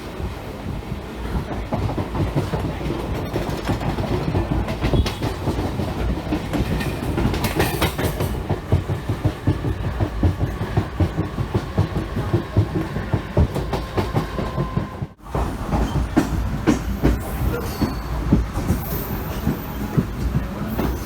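Passenger train running along the track, its wheels clattering over the rails in a dense stream of clicks and knocks over a low rumble. The sound drops out briefly about fifteen seconds in.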